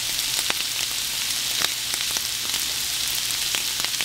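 Bay scallops with bacon and onions sizzling in a frying pan: a steady hiss with frequent small pops of spattering fat, the scallops just about done.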